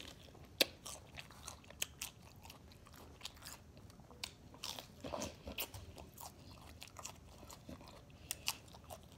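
A person biting and chewing crisp raw lettuce by mouth, with irregular sharp crunches.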